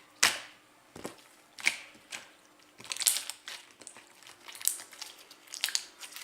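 Bubble slime being squeezed and stretched by hand, popping and crackling as trapped air bursts. A few single sharp pops come in the first two seconds, then quicker clusters of crackles.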